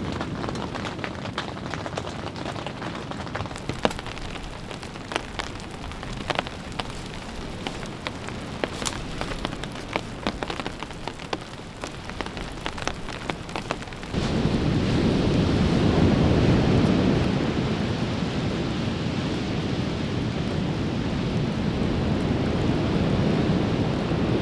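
Rain falling, with many separate drops ticking sharply. A bit over halfway through it gives way suddenly to a louder, deeper steady rushing noise.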